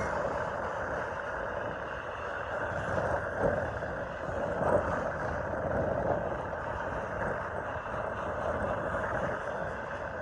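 Union Pacific intermodal train cars rolling steadily past on the rails, with two brief louder moments about three and a half and five seconds in. Gusty wind buffets the microphone underneath.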